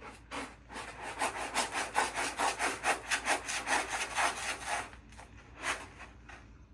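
A cat digging and scratching in a litter box of fine-grained litter, a quick run of rasping scratches about five a second that stops about five seconds in, followed by two or three single scrapes.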